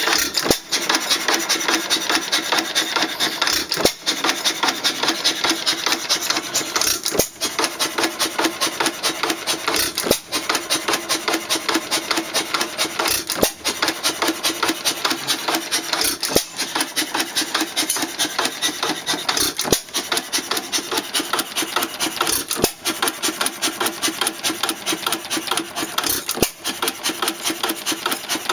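1917 Empire 2 1/2 hp hit-and-miss engine running, a rapid, even mechanical clatter of several beats a second with a short break about every three seconds.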